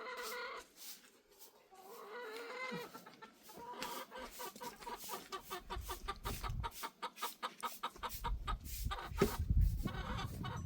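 Chickens clucking: a drawn-out call, then a fast run of short repeated clucks in the middle. A low rumble comes in over the last few seconds.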